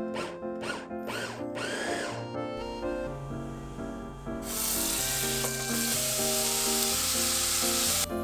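A small electric motor, such as a kitchen chopper or blender, spinning up in short pulses and then running steadily for about three and a half seconds, over light background music.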